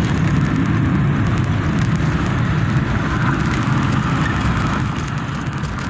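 Chevrolet Corsa Wind's 1.0 four-cylinder engine, breathing through an open double-flow sport air filter, pulling steadily under acceleration, heard from inside the cabin together with road noise. It eases off slightly near the end.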